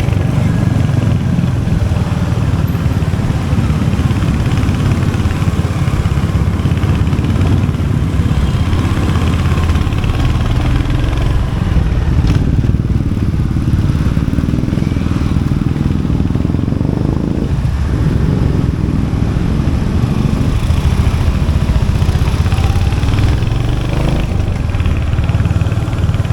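Royal Enfield Hunter 350's 349cc single-cylinder J-series engine running steadily, its exhaust note strong and low-pitched.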